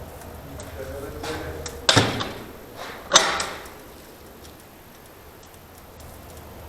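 Two sharp knocks about a second and a quarter apart, each with a short ringing tail.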